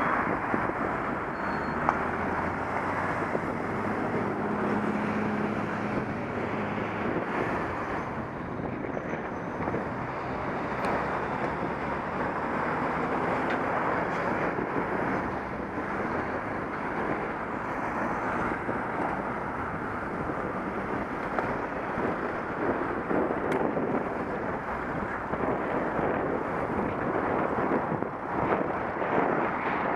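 Wind rushing over an action camera's microphone on a moving bicycle, a steady dense noise throughout. A passing motor vehicle's low engine hum is heard from about two seconds in to about seven seconds in.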